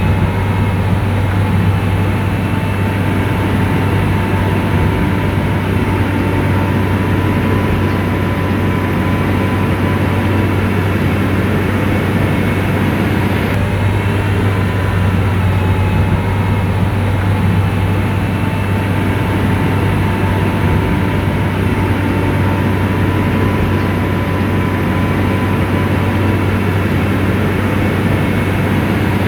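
Diesel engine of a motor grader running steadily, a constant deep drone without changes in pitch or load.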